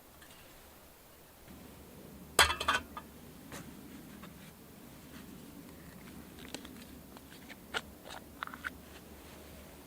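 Handling noises: a quick cluster of sharp clicks and knocks about two and a half seconds in, then scattered lighter clicks over a faint low steady rumble.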